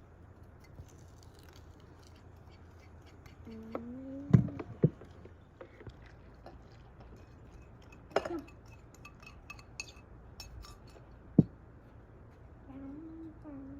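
Dishes and utensils clinking and tapping, with a few sharper knocks. A short pitched call or voice is heard twice, once about four seconds in and again near the end.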